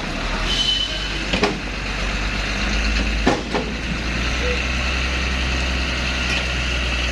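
Heavy truck engine running steadily, with a few sharp knocks over it.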